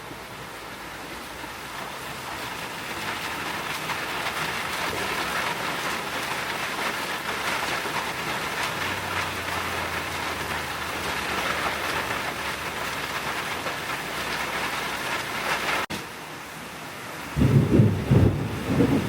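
Heavy rain pouring down, a steady rush that grows louder over the first few seconds. Near the end it breaks off briefly, then thunder rumbles in several loud, deep peals.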